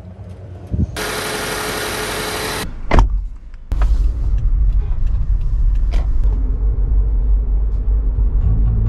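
Car being jump-started off a flat battery: the starter runs for about two seconds, there is a loud knock, and from about four seconds in the engine is idling with a steady low rumble.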